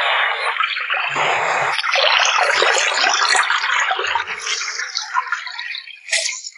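Water running and splashing: a steady, uneven rush with a few soft knocks, and a brief burst of splashing near the end.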